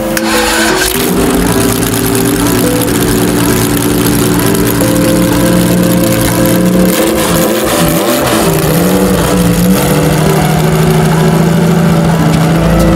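A supercar engine running at a steady pitch that steps up and down several times, with a brief wavering rev about eight seconds in.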